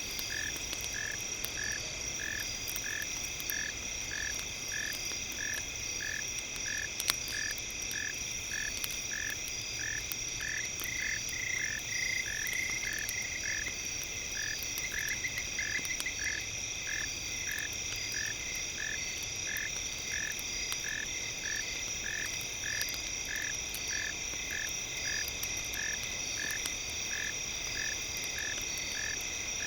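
Campfire crackling with scattered small pops and one sharper pop about seven seconds in, mixed with several steady high-pitched tones and a pulsed tone repeating about twice a second, with brief faster trills in the middle.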